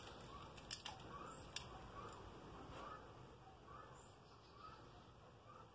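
Faint ambience with a bird giving a short rising call about once a second, and two sharp clicks in the first two seconds.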